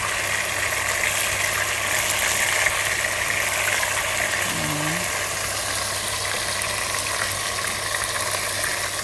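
Chicken pieces sizzling in hot oil in a pot, with occasional faint clicks as tongs turn them. A steady low hum runs underneath.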